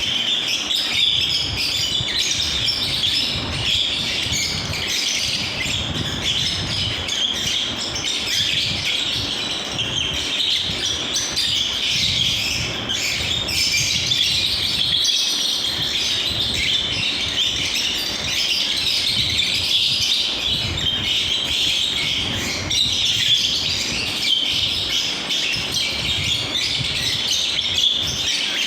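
Many lovebirds chirping and chattering continuously, their high calls overlapping into a steady chorus.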